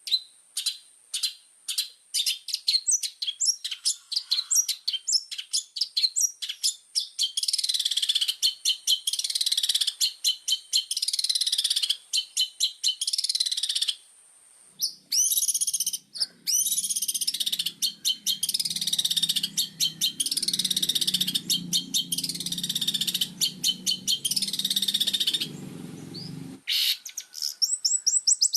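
Long-tailed shrike in full song: quick sharp chirps at first, then from about eight seconds in long runs of harsh, rapid, scratchy chattering, with a short break around the middle. A low steady hum sits underneath in the second half, and the song and hum cut off together shortly before the end, when chirping starts again.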